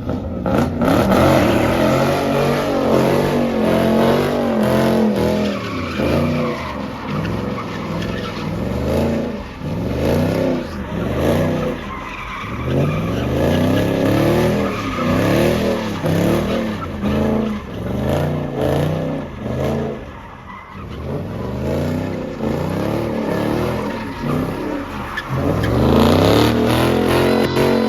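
A car sliding with its tyres squealing while the engine revs up and down over and over, about once a second. The revving eases briefly around two-thirds of the way in, then comes back louder near the end.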